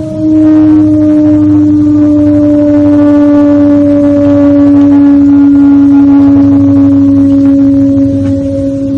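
One long, low horn-like tone with a strong overtone, held steady and sinking slowly in pitch, after a short break right at the start.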